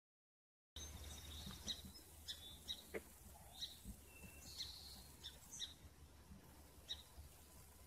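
Faint outdoor ambience starting about a second in: small birds chirping in short, scattered high chirps over a low steady rumble.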